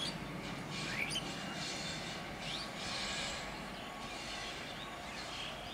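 Distant freight train running, a steady low rumble of its locomotive and wagons, with a few short bird chirps over it.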